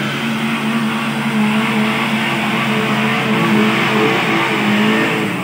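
Maruti Gypsy's engine held at high, steady revs under load as the 4x4 climbs through deep mud, getting a little louder as it approaches.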